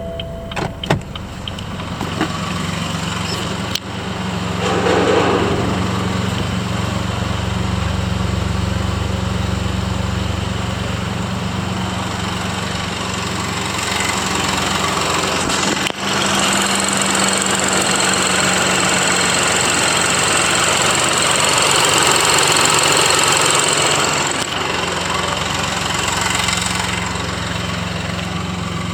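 BMW 218i Active Tourer's B38 1.5-litre turbocharged three-cylinder engine starting up, flaring in the first few seconds, then idling steadily. About halfway through a high whine joins the idle for several seconds before it settles back.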